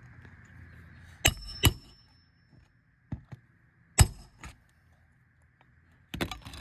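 Sharp metallic knocks and clinks of roofing hand tools on nails: two strikes about a second in, the loudest single strike around four seconds, and a quick cluster of knocks near the end, some with a short metallic ring.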